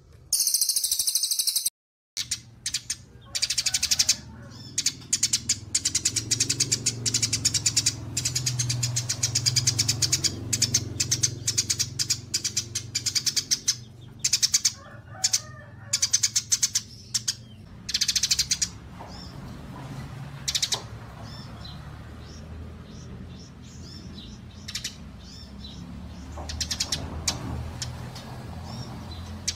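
Small songbirds chirping and trilling rapidly in shrill, dense runs, as used in a masteran recording for training caged songbirds. A brief loud hiss comes at the start, and a low steady hum runs beneath the song.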